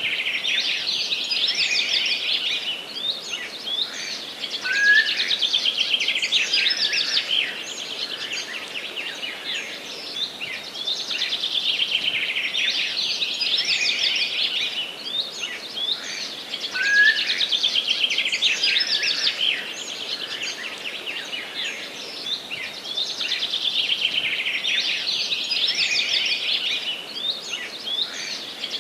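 Dense chorus of forest songbirds, rapid trills and chirps overlapping continuously, with a short rising whistle now and then; the same stretch of song repeats about every twelve seconds.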